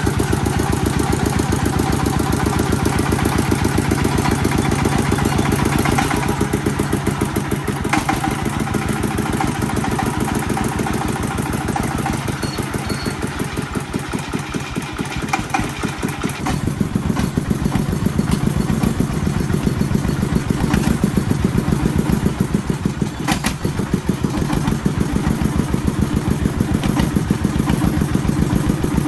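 Agricultural vehicle's engine running steadily, a rapid even chugging, easing slightly in the middle and growing louder again after. A few sharp clicks or knocks sound over it.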